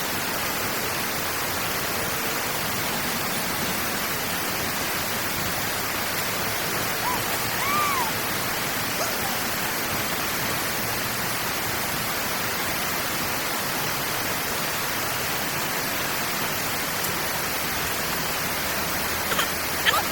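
Steady rush of water pouring through a drainage outlet after heavy rain. A short high chirp comes about eight seconds in, and a couple of sharp knocks come just before the end.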